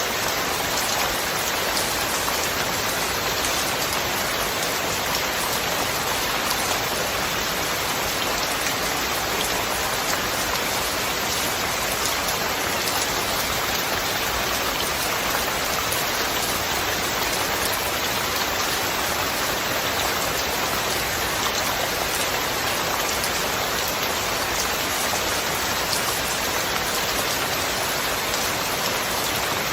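Steady rain falling: an even hiss of countless drops.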